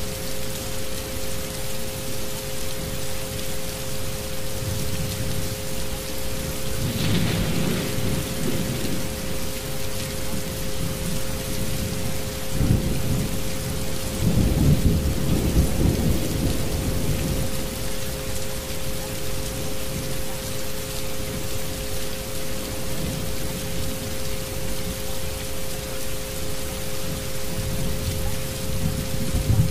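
Steady rain with thunder rumbling twice, about a quarter of the way in and again around the middle, under two steady high tones held throughout: the isochronic-frequency tones laid over the storm recording.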